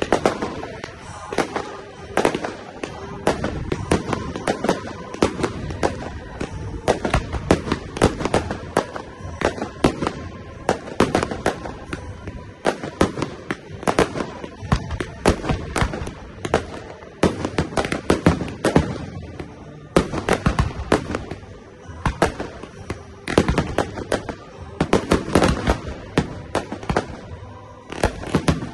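Fireworks display: aerial shells bursting and crackling in a rapid, unbroken barrage of sharp bangs, several a second.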